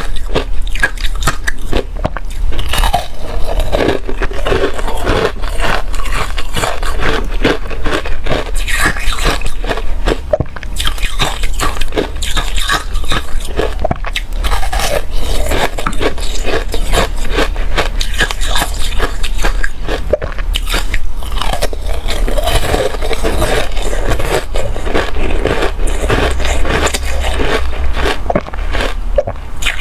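A person biting and chewing ice close to the microphone: a dense, continuous run of loud, irregular crunches.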